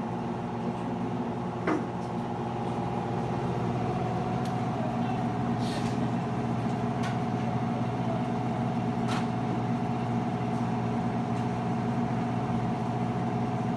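Whirlpool front-load washing machine running in its spin and drain cycle: a steady mechanical hum with a knock about two seconds in and a few faint ticks after. This is the noise the owner is complaining of.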